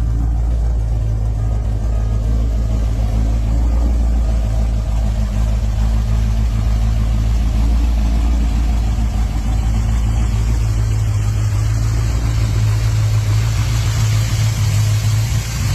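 A 383 stroker small-block V8 in a 1978 Chevrolet Camaro, running steadily with a deep, even low-pitched drone that grows slightly stronger near the end.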